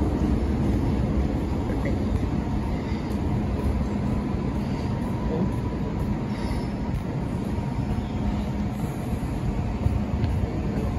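An MTR Tsuen Wan Line electric train running slowly into the depot: an even rumble of wheels on rail, with a steady low hum from its equipment.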